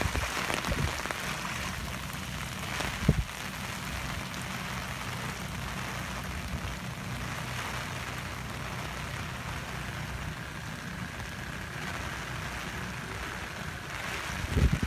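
Steady rain falling, with a low rumble underneath. A sharp knock comes about three seconds in and another just before the end.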